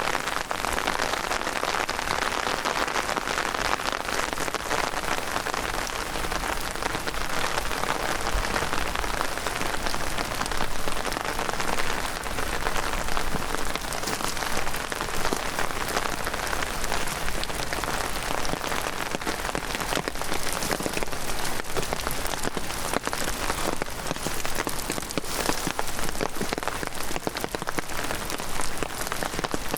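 Heavy rain falling steadily, with a dense scatter of sharp, close drop impacts over a constant hiss.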